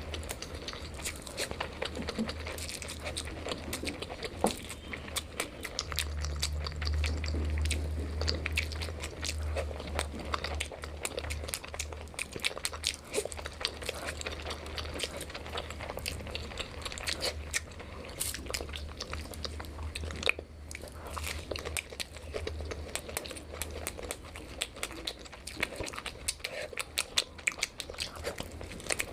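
Close-miked eating: biting and chewing food, with many small crunchy clicks throughout and a steady low hum underneath.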